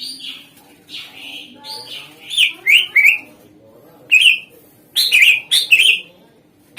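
Greater green leafbird (cucak ijo) singing in loud, rapid phrases of sharp, clear notes, many sliding downward, with pauses between the bursts.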